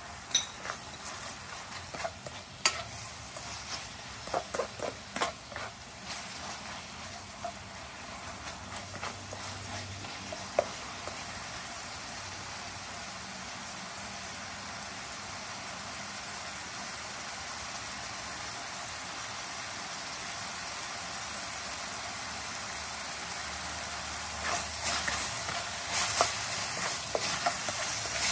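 Beef slices sizzling in oil in a wok, a steady hiss that grows slightly louder. A spatula scrapes and taps against the pan while stirring, in a run of strokes over the first few seconds, once around ten seconds in, and again near the end.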